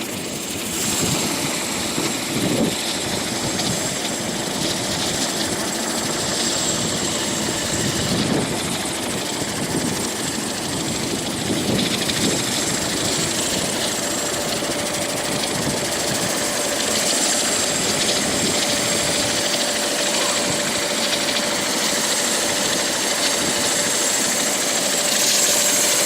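Helicopter in flight: steady rotor and engine noise, with a steady whine joining about halfway through.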